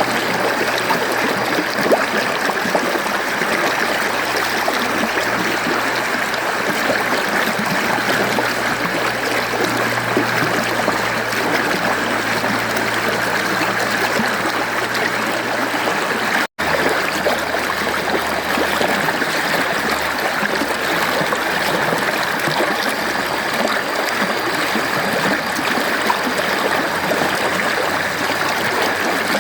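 Mountain stream running steadily, a continuous rushing of flowing water over rocks. The sound cuts out for a split second just past halfway, then carries on.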